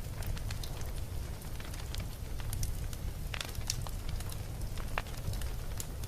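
Campfire burning: a steady low rumble of flames with irregular sharp wood crackles and pops, a couple of louder pops in the second half.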